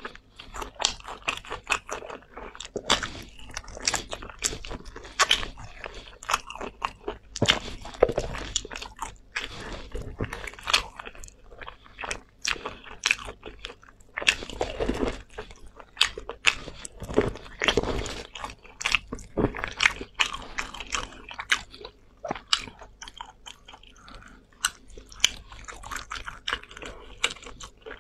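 Close-miked chewing and biting of braised meat on the bone, many sharp irregular crunches and clicks with wet mouth sounds.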